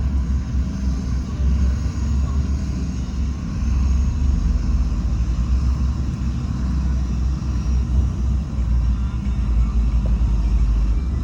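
Heavy diesel engine of construction machinery running with a steady low rumble.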